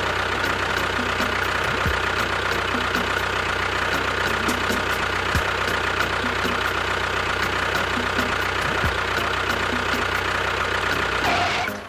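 A motor running steadily with a constant whine, then cutting off abruptly near the end.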